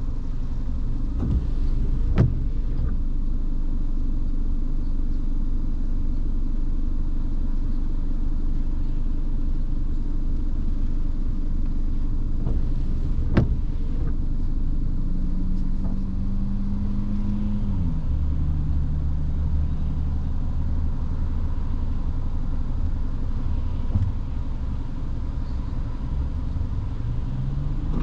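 Car driving in the rain, with a steady low rumble of road and engine. Around the middle the engine tone rises, then drops and settles to a steady low hum, and it rises again near the end. Two sharp clicks sound, one early and one about halfway through.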